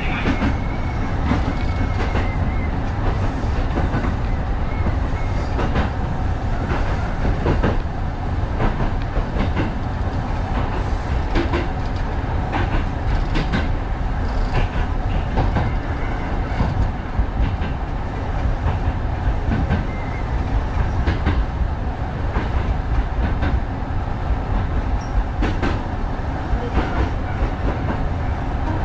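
Kintetsu 1010 series electric train running along single track, heard from on board. A steady low rumble with wheels clicking over rail joints throughout, and a faint high whine in the first couple of seconds.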